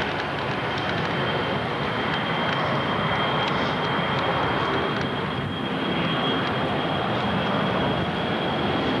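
Airplane engine running steadily, with a thin steady high-pitched tone throughout.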